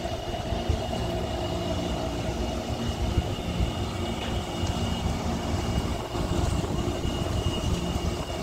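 Taipei Metro electric train running, a steady low rumble with several level humming tones from its motors and equipment and a thin high whine.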